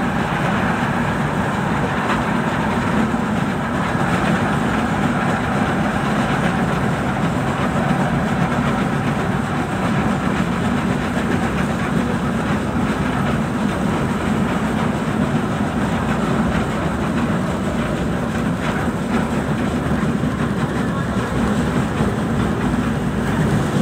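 Steady running noise inside a first-generation LRT-1 light-rail car moving at speed: wheels rolling on the rails, an even drone with no stops.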